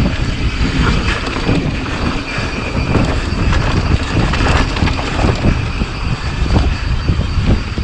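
Wind buffeting the microphone over the crunch and rattle of a full-suspension mountain bike (2018 Rocky Mountain Slayer) riding fast over rough, rocky dirt, with many small knocks from the tyres and bike.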